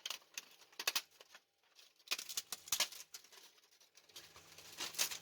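PLA+ support material being snapped and peeled off a 3D-printed part: irregular sharp snaps and crackles coming in bursts.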